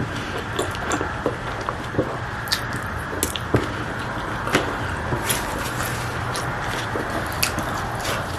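Close-miked mukbang eating sounds: chewing and squishing with scattered sharp clicks and crunches, over a steady low hum.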